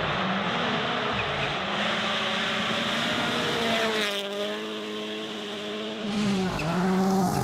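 Rally car engine running hard with a hiss of tyre and surface noise. The engine note dips and climbs again about four seconds in and once more near the end.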